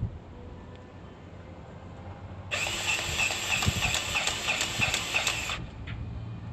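Grease gun pumping grease into a grease fitting for about three seconds, starting about two and a half seconds in and stopping sharply; the grease is taking in the fitting.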